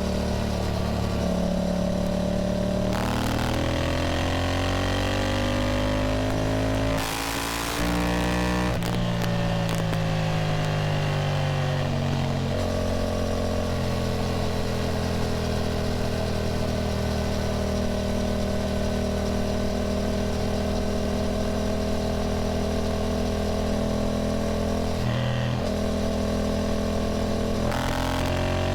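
Yamaha motorcycle engine heard on board while riding, with wind noise. It pulls up through the revs for a few seconds, dips briefly at a gear change about seven seconds in, then eases off and holds a steady cruise.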